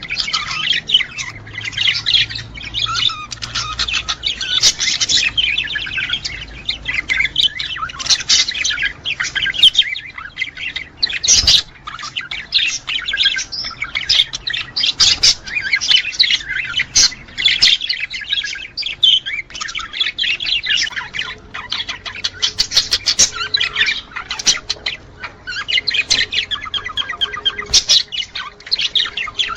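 Budgerigars chirping and warbling in a dense, unbroken chatter with squawks mixed in: the chatter of male budgies at mating time.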